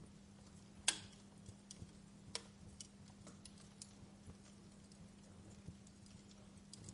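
Wood fire crackling quietly, with scattered sharp pops and snaps at irregular intervals, the loudest about a second in, over a faint steady low hum.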